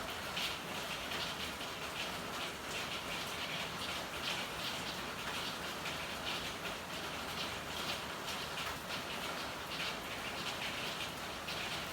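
Steady rain in an alley: a continuous hiss with irregular, brighter patter of drops striking hard surfaces.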